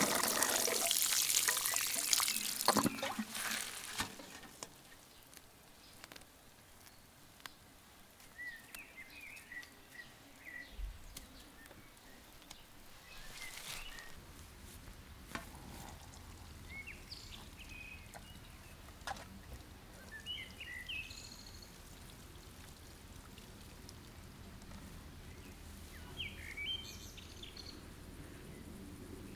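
Small birds chirping in short scattered phrases over a low outdoor background, with occasional light clicks and knocks. The first few seconds are taken up by a loud rushing noise that dies away about four seconds in.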